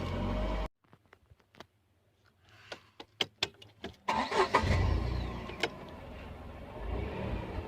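Tata Tigor car engine running, then cut off suddenly, followed by a few seconds of small sharp clicks. It is started again about four seconds in, catching loudly and settling to a steady idle.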